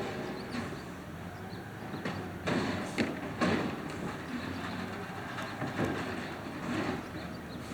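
Automated side-loader garbage truck running, a steady low engine hum with several sharp clanks and knocks from its lifting and packing gear.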